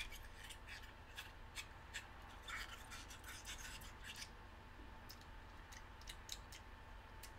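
Teeth biting and chewing on a rubbery ARK Therapeutic chewelry pendant close to the microphone: faint, irregular wet clicks, like chewing on rubber. The clicks come thick for about four seconds, then thin out.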